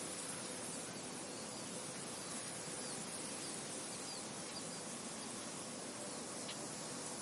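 Steady wind blowing across an open field, an even hiss. A few faint, short high bird chirps come through around the middle and again near the end.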